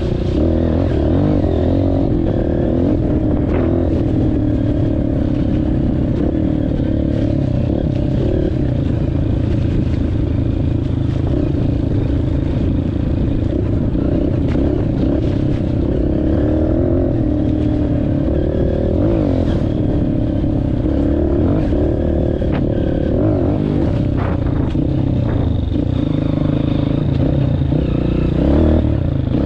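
Honda CRF230F's single-cylinder four-stroke engine running under constantly changing throttle as the trail bike is ridden through mud, with scattered clattering knocks from the bike over rough ground.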